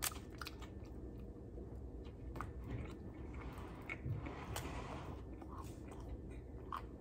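A person chewing a mouthful of food, with soft scattered mouth clicks.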